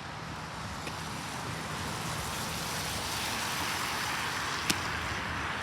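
Steady road-traffic noise that slowly grows louder, with one sharp click about five seconds in.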